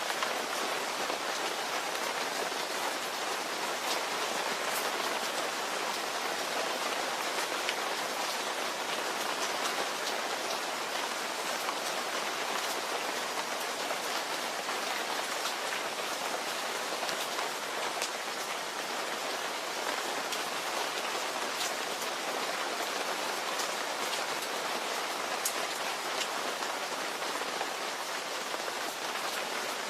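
Steady rain falling: an even hiss with scattered sharper drop ticks, no thunder.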